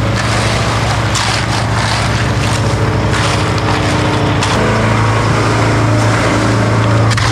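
An engine running steadily at a constant speed, a little louder about halfway through, with rough scraping noises over it.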